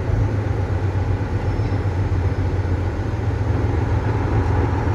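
Semi-truck's diesel engine running steadily under way, heard from inside the cab with road noise, just after a downshift to 7th gear.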